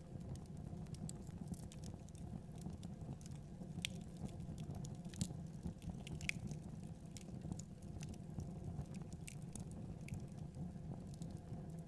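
Wood fire in a fireplace crackling, with irregular sharp pops and snaps over a low, steady rumble of burning.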